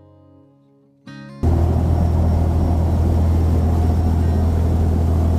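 Acoustic guitar music fades out. About a second and a half in, the loud, steady low rumble of a tour boat's engine cuts in, with an even hiss over it.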